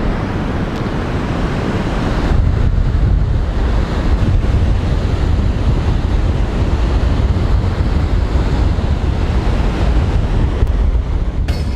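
Strong wind buffeting the microphone with a heavy low rumble, over the steady wash of rough surf breaking on the beach.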